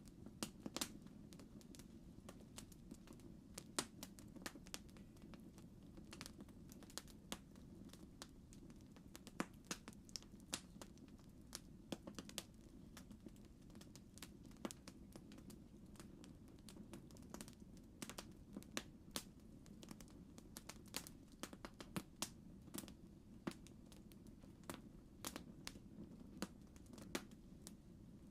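Campfire crackling: irregular sharp pops and snaps, several a second, over a low steady hiss of the burning wood.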